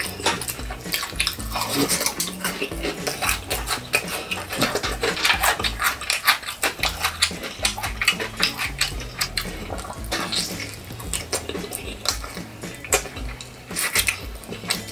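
Close-miked crunching and chewing of crispy fried chicken: a dense run of sharp crackles that thins out after about ten seconds and picks up again near the end.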